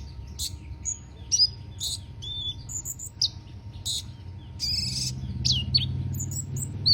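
Konin (kolibri ninja) sunbird singing actively: a string of quick, high chirps and sharp whistled notes, some dropping steeply in pitch, more densely in the second half.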